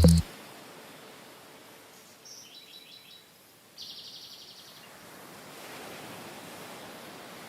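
Outdoor ambience with birds calling: a short run of high chirps about two seconds in, then a rapid high trill lasting about a second, over a steady low background hiss. A music track cuts off at the very start.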